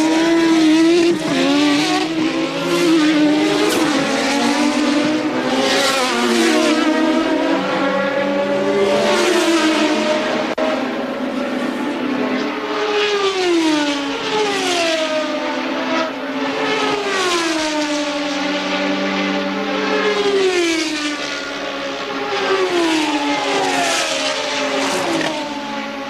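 Several 1983 Formula One cars running at racing speed, several engine notes at once. One note after another falls in pitch, about every one and a half to two seconds.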